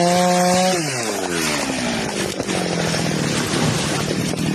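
Chainsaw engine held at high revs. About a second in, its pitch drops and it runs on lower and rougher.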